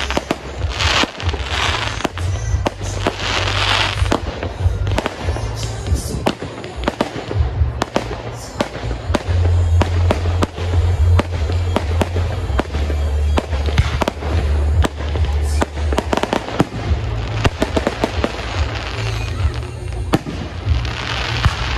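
Fireworks display: shells bursting one after another with many sharp bangs and stretches of crackling, over music playing underneath.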